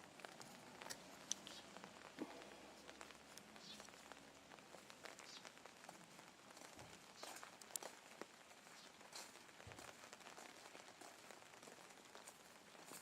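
Faint rain pattering, with scattered raindrops ticking irregularly.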